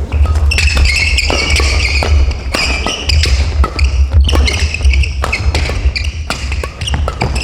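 Badminton rally on an indoor court: shoes squeaking on the floor and sharp racket hits on the shuttlecock come again and again, over a steady low hum.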